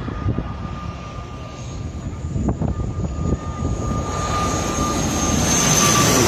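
Jet airliner approaching, its engine whine with two steady high tones getting louder over the last few seconds. Wind buffets the microphone underneath.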